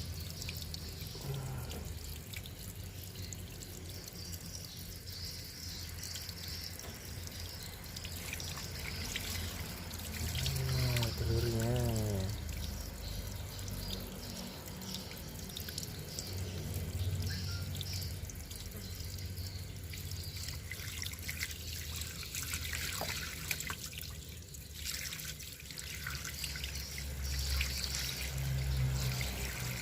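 Water trickling and dripping steadily, with scattered small clicks.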